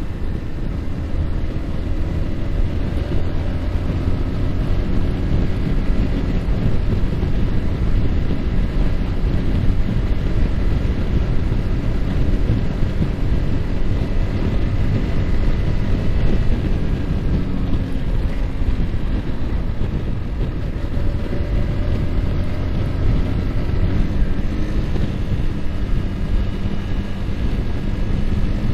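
Yamaha R15's single-cylinder four-stroke engine running at road speed under heavy wind rumble on the microphone. The engine pitch wavers and steps up about three quarters of the way through.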